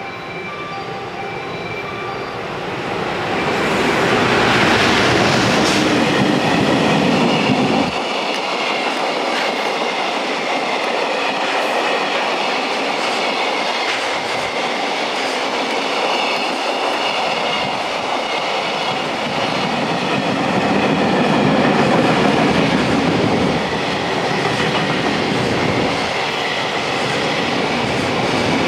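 JR Freight EF210 electric locomotive passing close by, loudest about four to eight seconds in, followed by a long train of container wagons rolling steadily past with the continuous rumble and clatter of their wheels on the rails.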